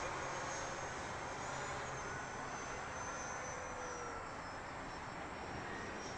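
Electric ducted-fan RC jet, an FMS Rafale, flying past: a steady rushing whine whose pitch drifts slowly down as the sound fades a little.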